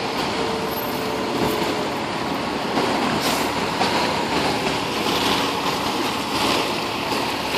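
Subway train running past, a steady noise without sharp breaks.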